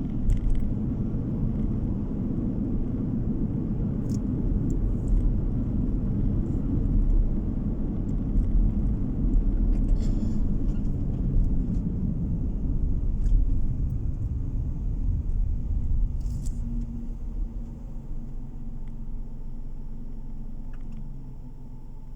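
Steady low road and engine rumble of a moving car, heard from inside the cabin, with a few faint clicks. It grows quieter over the last few seconds.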